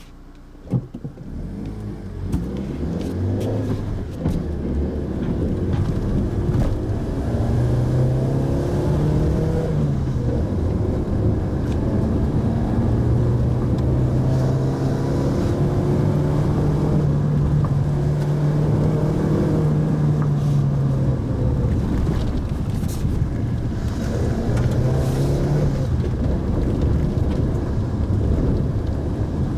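Mitsubishi Pajero Mini engine running as the car is driven, with road noise. The engine's pitch steps up and down several times, as with accelerating and changing gear. A sharp click comes under a second in, and the sound grows louder over the first few seconds.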